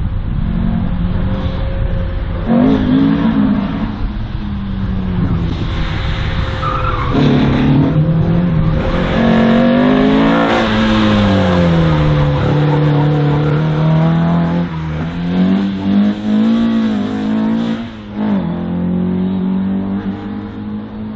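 A slalom race car's engine revving hard and easing off again and again, its pitch rising and falling with each gear and turn, loudest about halfway through.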